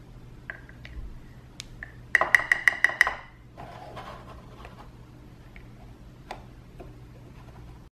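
Small hard-plastic parts of a toy toilet candy kit tapping and clicking together: a few single clicks, then a quick run of about seven sharp taps in one second as the cup is knocked against the tank, followed by a soft rustle and scattered lighter clicks as the toilet is handled.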